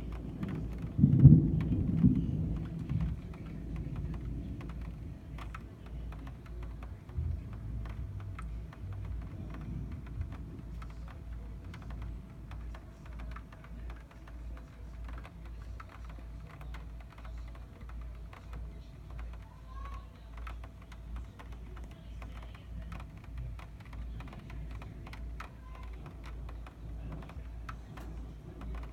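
A thunder clap about a second in, rumbling low and dying away over the next few seconds, with a smaller rumble a few seconds later. Then the start of rain: scattered, irregular raindrop ticks over a faint steady hum.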